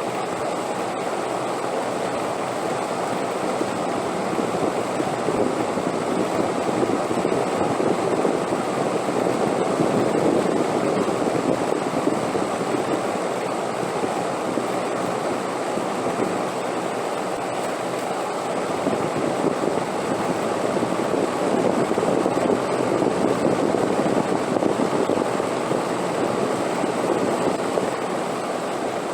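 Steady rushing wind that swells and eases slowly in long gusts.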